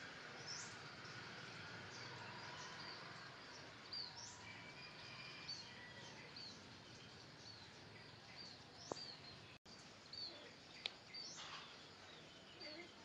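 Faint outdoor ambience with small birds chirping: short high chirps repeating every second or so over a low steady hiss.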